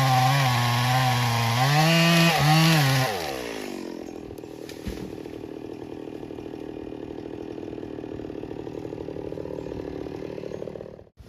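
Two-stroke chainsaw running at high revs with the pitch wavering up and down. About three seconds in the throttle is released and it drops to a quieter idle, then the sound cuts off abruptly near the end.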